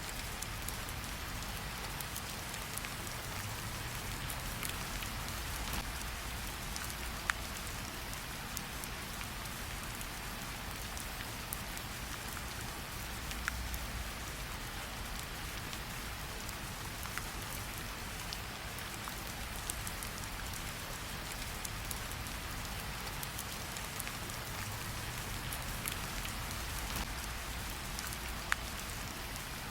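Steady rain falling, mixed with a campfire, with a low rumble underneath and a few sharp crackles standing out now and then.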